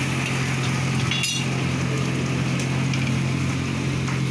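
Food frying over gas burners, in a wok and in an iron kadhai of hot oil, making a steady sizzle with a constant low hum under it. A single metallic clink rings out about a second in.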